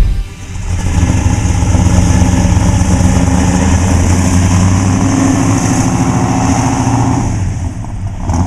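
1968 Dodge Charger's 383 big-block V8 running steadily, easing off a little near the end.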